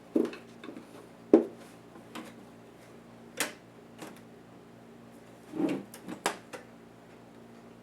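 About five scattered clicks and knocks of a laptop's parts and small tools being handled during disassembly, the sharpest about a second and a half in.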